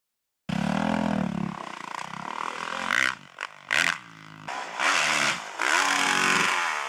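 Motocross motorcycle engine revving, starting abruptly about half a second in, then blipped up and down several times, its pitch rising and falling with each burst of throttle.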